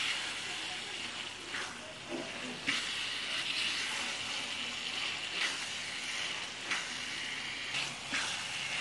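Minced meat and chopped bitter gourd sizzling in oil in a pan, a steady frying hiss, with the scrapes of a spatula stirring it now and then.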